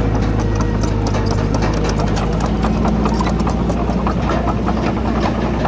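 Diesel engine of a crawler bulldozer running steadily, with a dense, irregular clatter of sharp knocks over it throughout.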